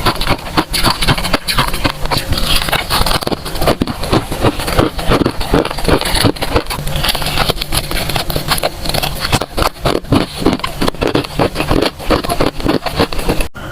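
Freezer frost crunching: a dense, unbroken run of crisp crunches, with a brief dropout near the end.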